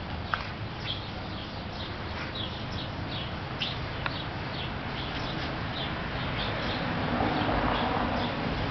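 Small birds chirping over and over, short high chirps a few times a second, over a steady outdoor background noise that grows louder near the end. Two small clicks, one just after the start and one about four seconds in.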